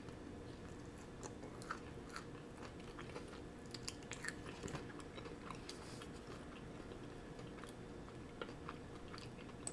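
A person chewing a cinnamon crunch bagel, with many small scattered crunches and wet mouth clicks.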